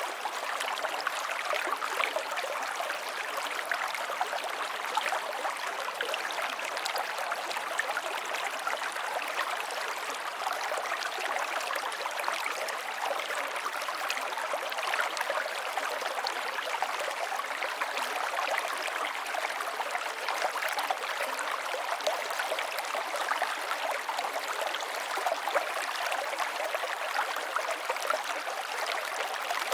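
River water flowing, a steady rushing and babbling with small splashes throughout.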